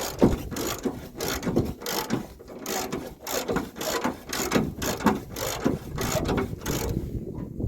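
Rhythmic mechanical clatter, about two to three knocks a second, like gears or a ratchet working.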